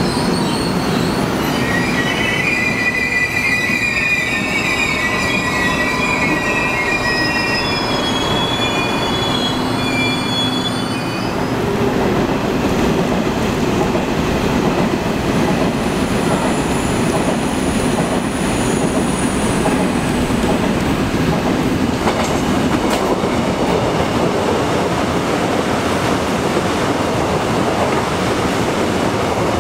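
Korail electric commuter trains running past. In the first ten seconds a departing train gives off several high whining tones over its running noise; after that comes steady running and wheel noise of passing trains.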